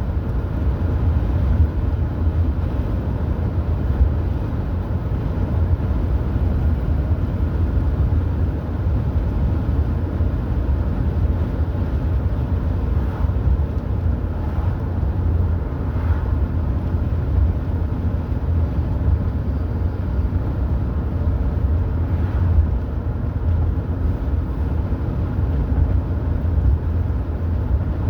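Car driving steadily: a constant low rumble of engine and road noise that does not change.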